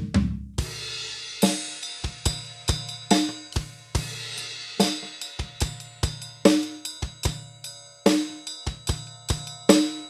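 Drum kit being played for a sound test: a fast low drum fill ends right at the start into a cymbal crash, then a steady beat of kick and snare with cymbals ringing over it.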